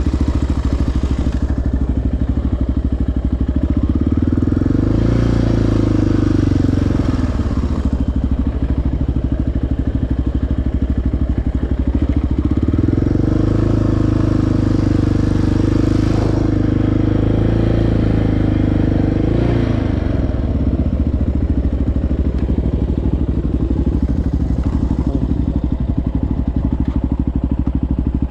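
Single-cylinder four-stroke ATV engine running under load on a rough trail, its note rising and falling several times as the throttle is worked.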